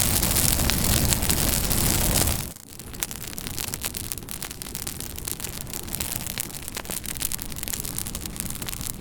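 Campfire crackling. For about the first two and a half seconds it is a loud, dense rushing hiss full of pops; then this cuts off suddenly, leaving quieter crackling with frequent sharp snaps.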